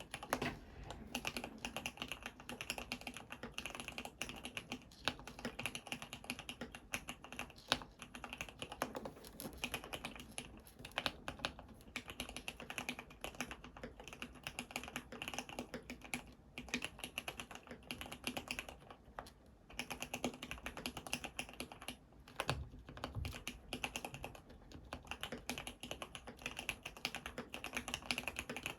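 Continuous typing on an ABKO AR87 full-aluminium CNC mechanical keyboard with Cherry black-housing MX Red linear switches lubed with Super Lube grease, under Cherry-profile PBT keycaps. The keystrokes come as a dense, fast stream of clacks, with a short lull a little before twenty seconds in and a couple of deeper thuds soon after.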